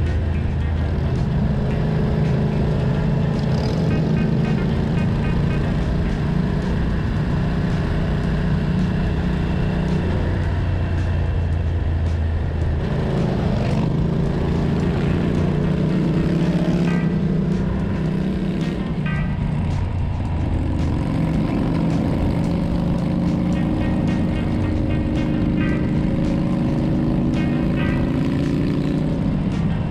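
Motorcycle engine running under way, its note holding steady, then changing pitch with throttle and gear changes and climbing steadily in the last third as the bike accelerates.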